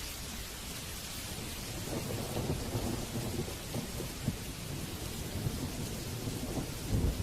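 Steady rain with rolling thunder: a low rumble builds about two seconds in and swells louder again near the end.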